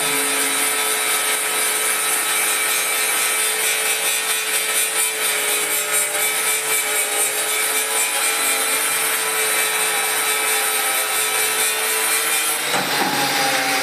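Electric power tool running steadily under load: a constant motor whine over a harsh, hissing grind. The pitch shifts near the end.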